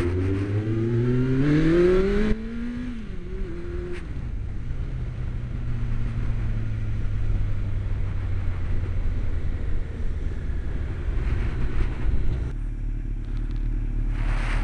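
Honda CB1300 motorcycle engine heard from the rider's helmet, accelerating with its note rising for about two seconds, then easing off and settling to a steady lower note as it cruises at low speed, with road and wind rush behind it.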